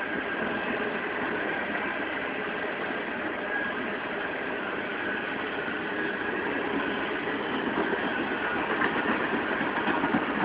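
Empty coal hopper cars of a unit coal train rolling past, a steady rumble and clatter of steel wheels on the rails with faint high squeals, growing a little louder near the end.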